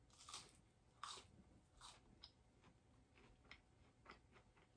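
Faint chewing of Cajun fries: a few short bites in the first two seconds, then smaller, quieter chewing ticks.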